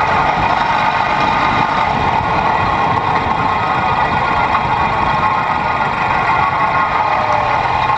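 Small engine of a racing lawn tractor running steadily, close to the microphone.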